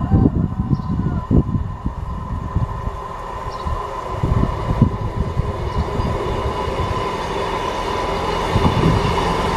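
Class 158 diesel multiple unit running at the platform: a steady engine rumble with a thin whine over it, growing slightly louder toward the end.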